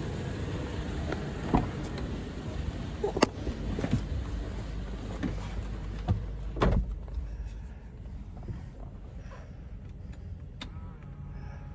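Toyota Innova Crysta: low steady rumble with several sharp clicks and knocks. After a heavier thump a little past halfway, it turns quieter.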